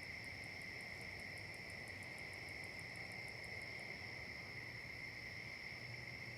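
Insects trilling in a steady, unbroken chorus, with a fast, even high ticking of about five a second layered on top that stops about four seconds in.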